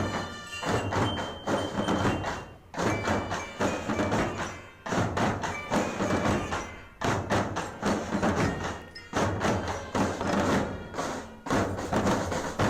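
Indonesian Naval Academy military marching band playing: drums beat a steady rhythmic cadence, with some melody notes above near the start.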